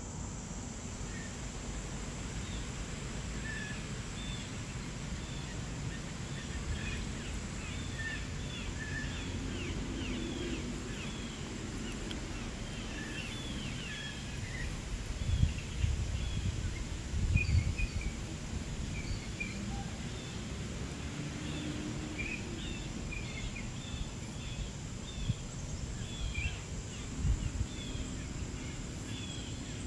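Outdoor ambience of small birds chirping in short, repeated calls over a steady high-pitched hum, with low rumbles about halfway through and near the end.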